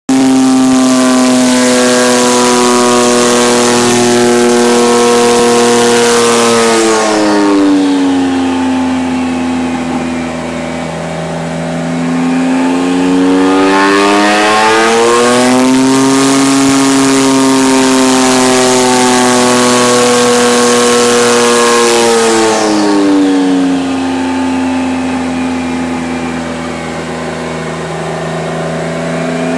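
Rossion Q1's twin-turbo V6 running under load on a chassis dynamometer during engine break-in, the rear tyre driving the roller. It holds steady revs, drops back to lower revs about seven seconds in, climbs again and holds, then drops back a second time about twenty-three seconds in, starting to climb again at the end.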